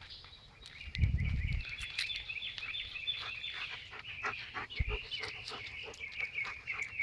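Birds chirping steadily in the background, with a short low rumble about a second in and scattered light clicks and rustles.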